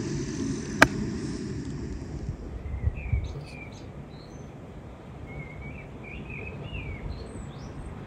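Small birds chirping in short, repeated calls from about three seconds in. There is a single sharp click about a second in.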